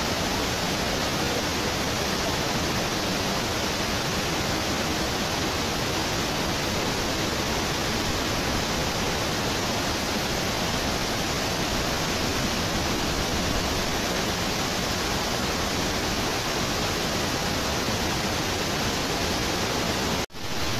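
Waterfall rushing, a steady full roar of falling water that cuts out for a split second near the end, then comes back.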